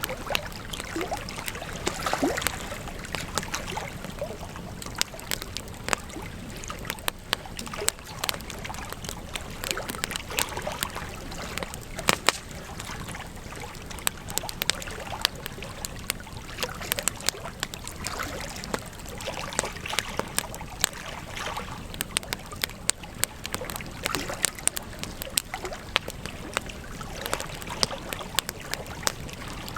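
Campfire burning, with a steady hiss and many irregular sharp crackles and pops from the burning wood. A few louder pops stand out, one about two seconds in and another near twelve seconds.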